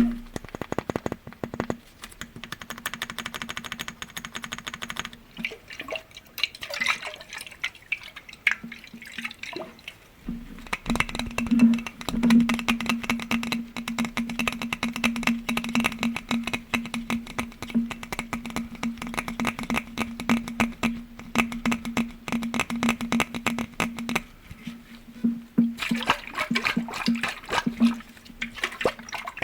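Rapid, continuous tapping on glass objects, many quick light taps a second, with a steady low tone held underneath.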